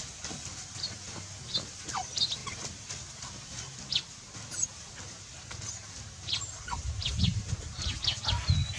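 Scattered short, high bird chirps in the background, with one short falling call about two seconds in. Low rumbling thumps come in over the last two seconds.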